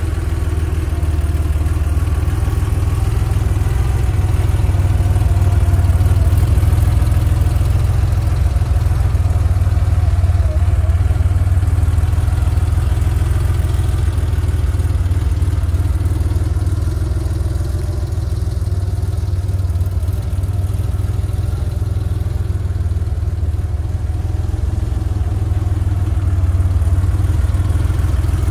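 Porsche 911 Carrera 3.2's air-cooled flat-six engine idling steadily.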